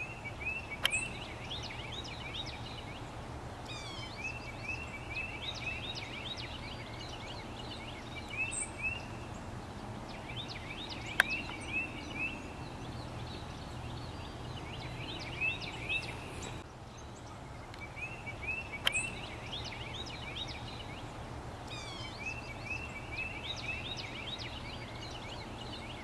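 A songbird singing the same short phrase of quick, hooked notes again and again, a new phrase every three to four seconds. A few sharp clicks and a steady low hum of background noise sit under it.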